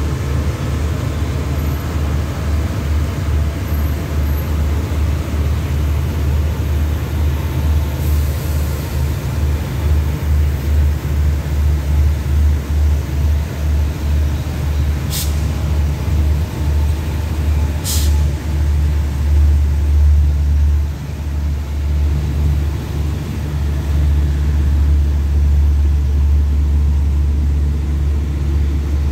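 Diesel-hauled passenger train, locomotive QSY5208 with its coaches, pulling out and rolling along the track. A loud, low rumble pulses rapidly, with two brief high-pitched squeaks about halfway through.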